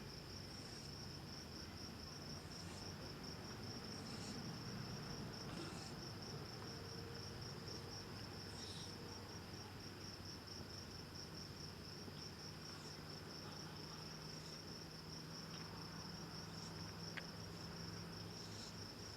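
Insects chirping in a steady, rapid, even high-pitched pulse, with faint brief hisses now and then.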